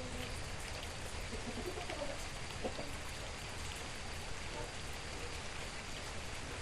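Steady rain falling, an even hiss of drops, with a few faint short calls in the first few seconds.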